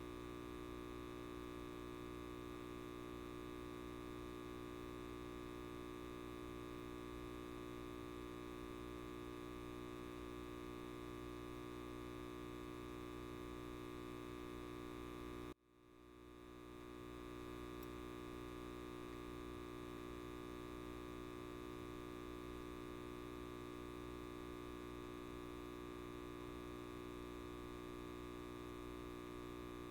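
Light bulb giving off a steady electrical buzz, a dense hum of many even tones. About halfway through it cuts out suddenly and swells back to full over a couple of seconds.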